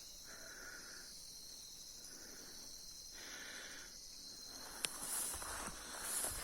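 Steady high-pitched insect chorus with a few short buzzing calls. About five seconds in there is a sharp snap, then rustling and crackling that sound like movement through dry leaves and brush.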